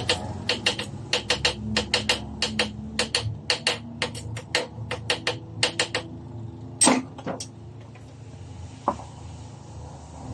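A quick series of sharp clicks and taps from hand-tool work, about three a second, then a louder knock about seven seconds in and a fainter one a couple of seconds later, over a steady low background hum.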